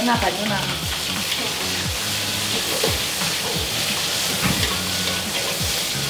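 Food frying in hot oil, a steady sizzle, with a few scattered clicks.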